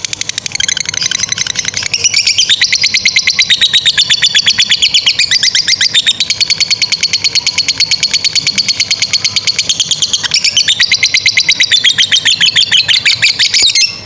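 Lovebird 'ngekek': a long, unbroken chattering trill of shrill notes at about six a second, building up in the first two seconds and then held without a pause before cutting off abruptly near the end.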